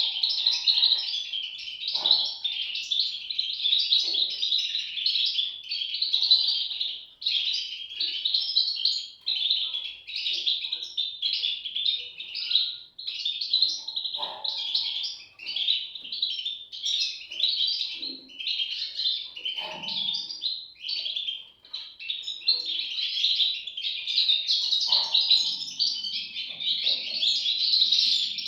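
A brood of goldfinch chicks calling: a dense, continuous mass of high, rapid chirps.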